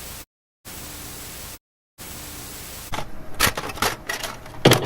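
Three bursts of steady hiss, each cutting off abruptly into dead silence, then from about three seconds in a run of sharp clicks and knocks.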